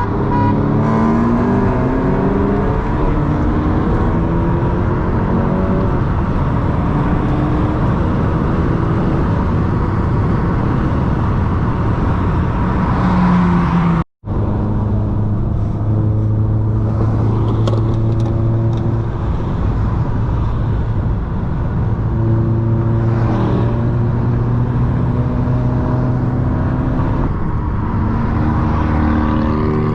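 Car engine accelerating hard, its pitch climbing. After an abrupt cut about halfway through, it settles into a steady drone at constant speed.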